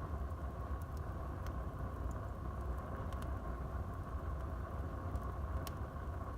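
Wood fire burning in a fireplace: a steady low rumble of flames with a few sharp crackles, the loudest near the end.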